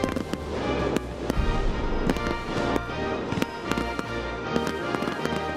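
Music playing, with aerial fireworks bursting and crackling over it in sharp, irregularly spaced bangs.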